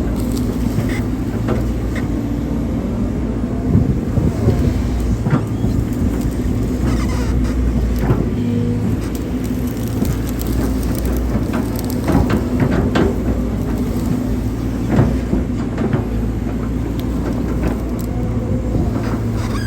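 Hydraulic excavator's diesel engine running steadily under working load, with scattered knocks and scrapes from the bucket digging soil.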